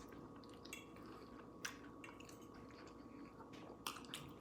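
Faint chewing with a few soft wet mouth clicks and smacks, over a quiet steady room hum.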